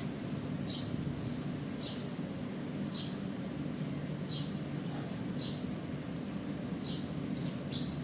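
A small bird's short high chirps, repeated about once a second, over a steady low hum.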